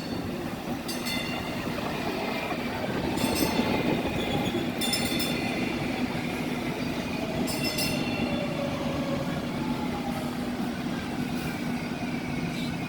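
DART light rail train running by with a steady hum and several tones slowly gliding in pitch. A few sharp clacks come irregularly, a second or more apart.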